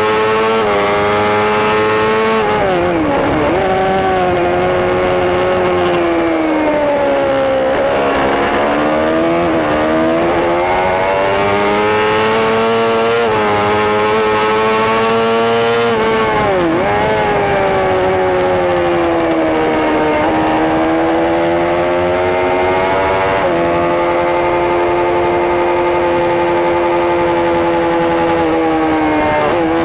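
Superbike racing motorcycle engine heard on board, pulling hard with the pitch climbing under acceleration, then dropping sharply under braking and downshifts twice. Near the end it holds a steady high pitch for several seconds before falling again.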